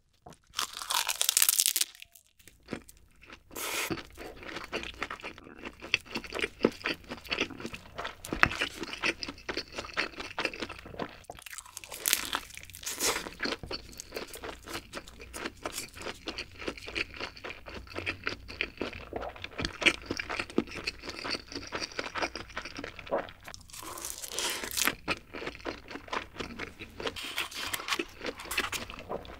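Close-miked eating of a triangle kimbap: crisp seaweed crunching with a loud bite about a second in and more bites later, and steady moist chewing of rice between them.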